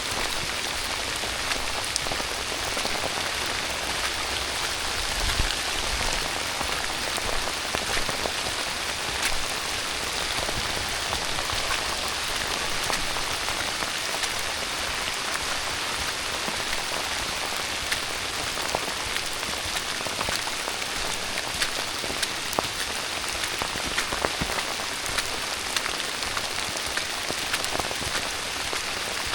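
Steady rain falling in a constant hiss, with many individual drops tapping sharply close by.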